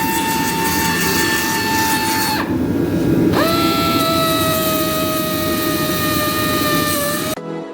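Power tool run twice: its motor spins up with a rising whine, runs steadily over a hiss, stops about two and a half seconds in, then starts again at a lower pitch and cuts off near the end.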